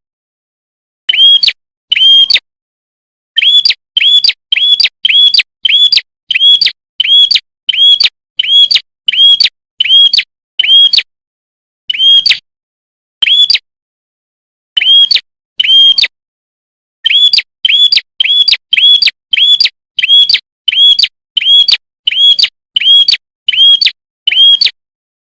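Prenjak kepala merah, a small prinia-type songbird, calling: loud, sharp, identical chirps repeated about twice a second in runs, broken by short pauses.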